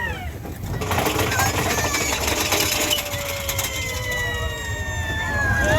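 Big Thunder Mountain Railroad roller coaster train rattling and clattering along its track, followed by a long falling cry held for almost three seconds.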